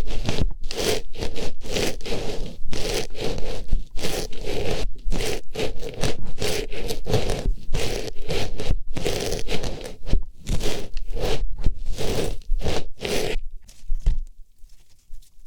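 Artificial rose flower pushed into and rubbed against an ear for ASMR ear cleaning: rapid scraping and rustling strokes, many a second, that stop near the end.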